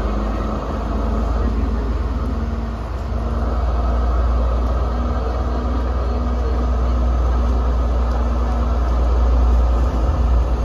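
Passenger train running along the track, heard from an open window of a moving carriage: a steady rumble of the carriages with wind on the microphone.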